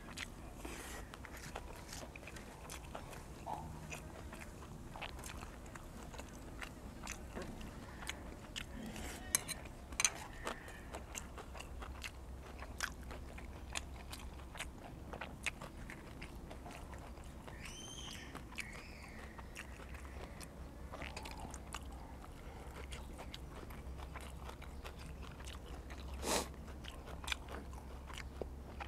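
A man chewing and crunching mouthfuls of raw beef and fresh vegetables close to the microphone, with scattered small wet clicks from the mouth and a sharper click near the end.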